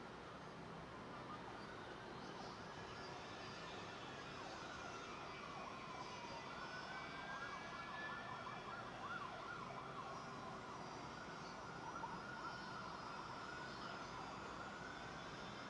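Faint, distant siren wailing, its single tone slowly falling and rising in pitch over several seconds, with a dip about six seconds in and a rise near the end.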